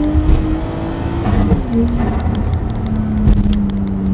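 Nissan Skyline's engine heard from inside the cabin while driving: the note climbs slightly, drops about a second in and then holds steady at lower revs. A few light ticks sound in the second half.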